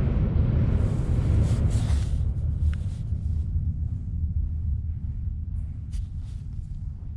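Low rumble of a London Underground Central line train running in the tunnel, fading away over a few seconds, with a brief faint squeak about three seconds in.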